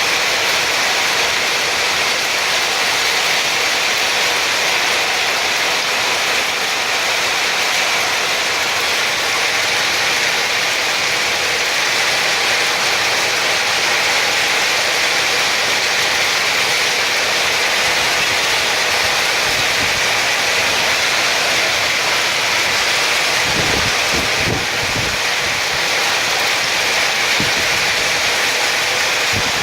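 Heavy hail falling: a dense, steady clatter of hailstones striking surfaces. A few low thumps come about three-quarters of the way through and again near the end.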